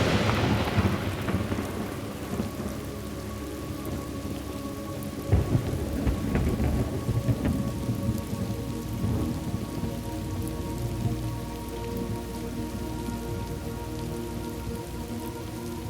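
Thunderstorm ambience: steady rain, with a clap of thunder at the start that fades over a couple of seconds, and a second rumble of thunder about five seconds in.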